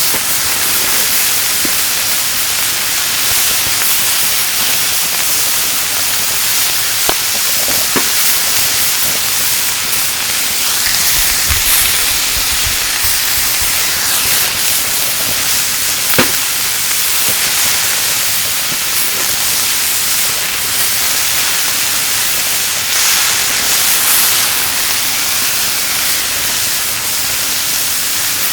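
Meat sizzling as it grills over a kerosene heater: a steady hiss, with a few light clicks.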